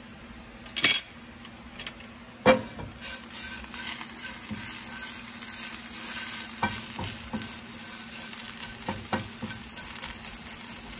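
Jute leaves frying in ghee in a frying pan with a steady sizzle, stirred with tongs that knock and scrape against the pan. The two loudest knocks come about one and two and a half seconds in, and a run of lighter taps follows later.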